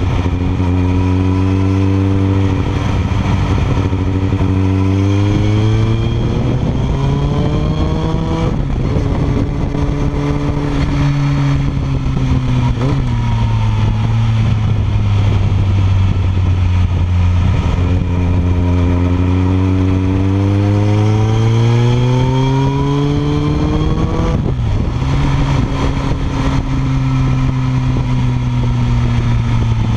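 Kawasaki ZX-14R's inline-four through a Yoshimura R77 slip-on exhaust, heard close to the silencer under way. The revs climb steadily and drop back sharply twice, once about eight seconds in and again late on, with steadier running between.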